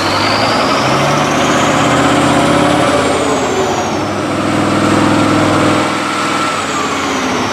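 Tractor engine running and working, its pitch climbing over the first three seconds, dropping, then rising again around five seconds, with a faint high whine that rises and falls along with it.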